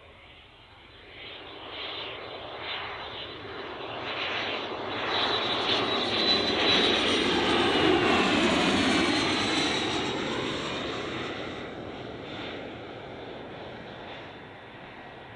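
Cessna 550 Citation II business jet, with its twin Pratt & Whitney JT15D turbofans, flying a very low approach past: the engine sound builds, peaks about eight seconds in as a high whine drops in pitch while the jet passes, then fades.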